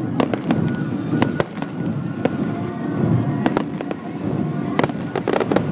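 Aerial firework shells bursting: a quick, irregular run of sharp bangs and crackles over a constant low din.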